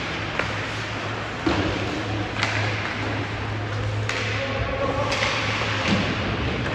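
Ice hockey play in a rink: several sharp clacks and knocks of sticks, puck and boards over a steady low hum and faint crowd murmur.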